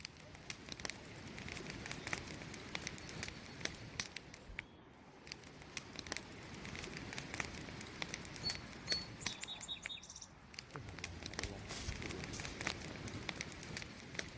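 Wood campfire crackling: a steady run of irregular sharp pops and snaps over a low rustle of burning. A couple of brief high chirping notes come a little past the middle.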